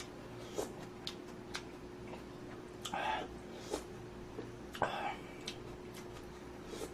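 Quiet eating sounds from a bowl of instant budae-jjigae ramen: a few short slurps, about 3 and 5 seconds in, among scattered light clicks of utensils on the bowl.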